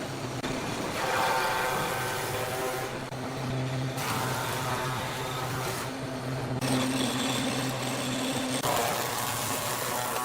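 A power tool's motor running steadily, rising in four stretches of louder cutting noise of about two seconds each as it works the wood.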